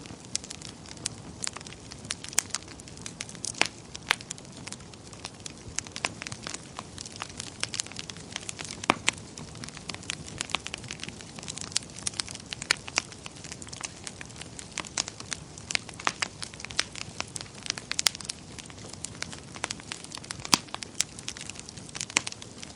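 Wood fire in a fireplace crackling, with irregular sharp pops and snaps over a soft steady hiss of burning.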